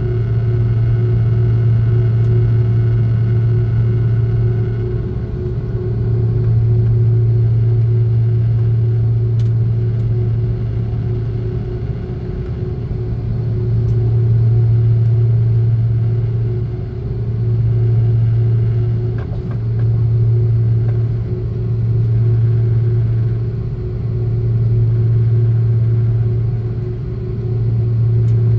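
Airliner engines heard from inside the cabin of an Airbus A330-323, its Pratt & Whitney turbofans running as a steady low drone with a steady higher hum. The low drone swells and fades every two to four seconds, the slow beat of two engines running at slightly different speeds.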